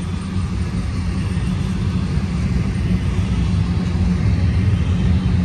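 Freight train passing, a steady low rumble that slowly grows louder.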